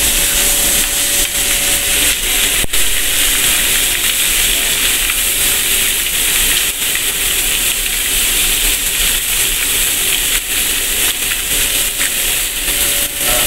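Chicken legs sizzling steadily in hot ridged grill pans, seared half-cooked before they go into the oven, with a single sharp click about two and a half seconds in.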